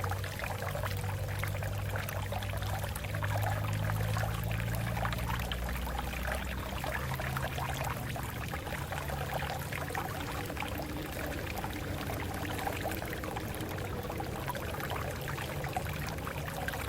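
A stream of water flowing over rocks: a steady rush full of small splashes and trickles, with a low rumble underneath.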